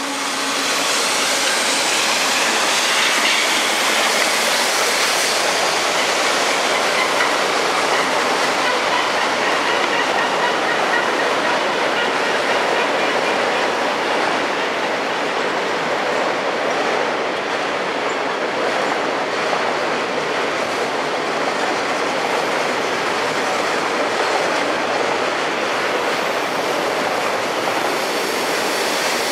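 Freight train cars rolling past close by: a loud, steady clatter of steel wheels on the rails, with a faint high wheel squeal in the first part.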